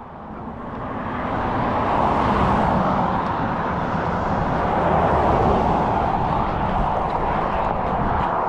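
Vehicle noise: a steady rush, like a motor vehicle on a nearby road, that swells over the first two seconds and then holds.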